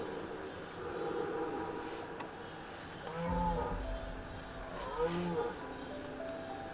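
Crickets chirping steadily, with a red stag giving two short deep roars, about three and five seconds in. A low music drone with held notes comes in at the first roar.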